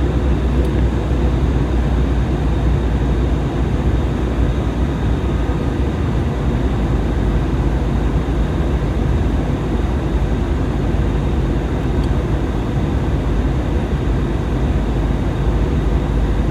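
Steady engine and airflow noise inside an Airbus airliner's cabin, a constant low rumble.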